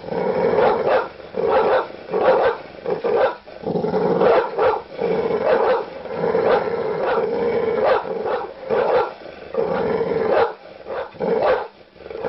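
Large dog barking aggressively: a rapid run of deep barks, about two a second, with brief pauses.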